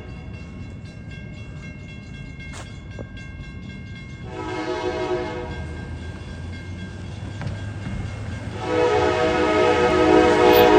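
Siemens Charger locomotive's horn on an Amtrak Capitol Corridor train sounding a short blast about four seconds in, then a long blast near the end, the closing short-long of the grade-crossing warning, over the low rumble of the approaching train. A crossing bell rings faintly in the first few seconds.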